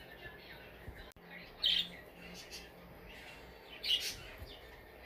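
A few short, high chirps of a bird, the two loudest about two seconds apart.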